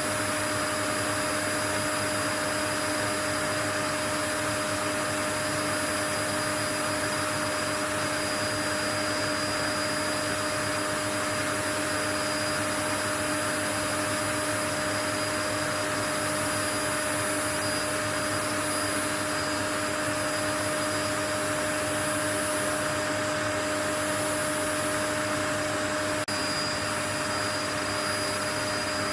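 Continuous white-noise track: an even rushing hiss with faint steady hum tones in it, unchanging throughout.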